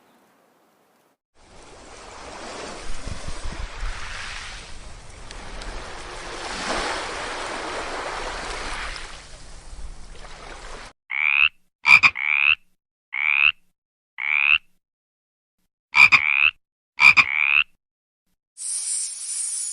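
A rushing noise that swells and fades, then about eight short, sharp animal calls, single and in pairs, over the second half. A high hiss starts near the end.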